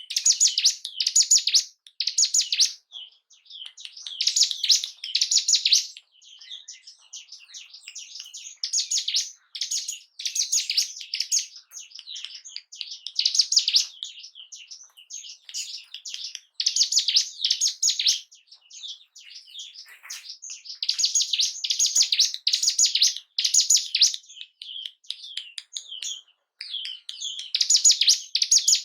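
Ciblek gunung, a small prinia, singing: loud bursts of rapid, high, scratchy trilling phrases every couple of seconds, with softer chirping between them.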